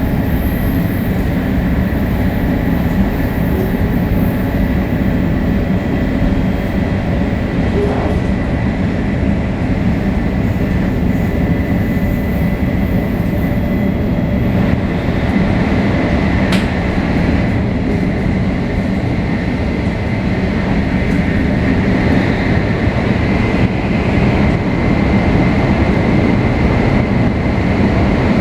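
Shinkansen 500 series train with Toshiba GTO-VVVF traction inverters, heard from inside the car while running between stations: a steady rumble of wheels and motors with a thin steady tone above it.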